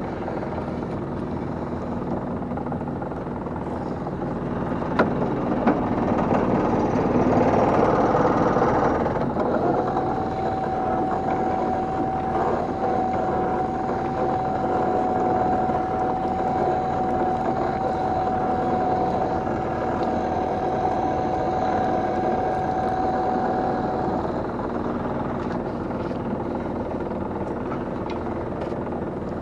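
Small fishing boat's engine running steadily while a gill net is hauled aboard. There are a couple of sharp knocks about five seconds in, and a steady high whine sets in about ten seconds in and stops several seconds before the end.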